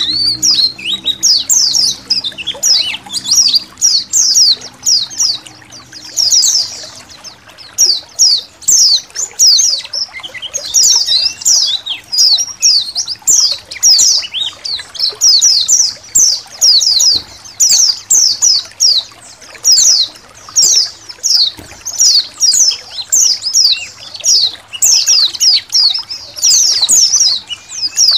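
A colony of white-eyes (pleci) chirping continuously in quick, high twittering notes, many per second, over a faint trickle of water.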